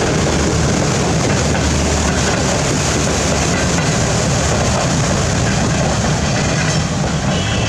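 Passenger train coaches rolling past on a flooded track, their wheels churning through the water and throwing up spray: a steady, loud rush of splashing water mixed with rail noise, easing slightly near the end as the last coach goes by.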